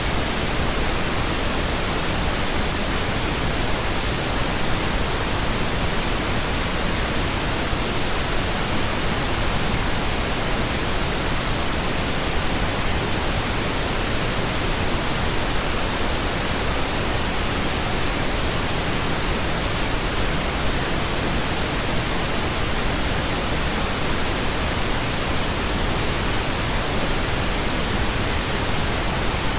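Steady pink noise: an even, unchanging hiss spread across the whole range of pitch, without breaks or events.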